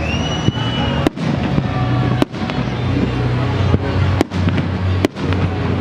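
Aerial fireworks bursting in a series of sharp bangs, about five in a few seconds, over a steady bed of background noise.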